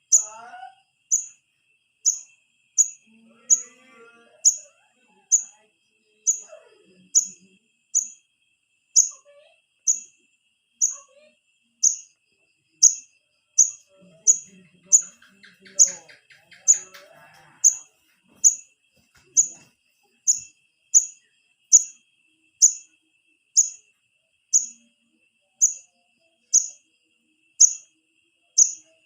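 Begging call of a young wiceh (korlap) bird, used as a lure to call in the parent birds. It is a short, high, falling chirp repeated at a very even pace, a little more than once a second.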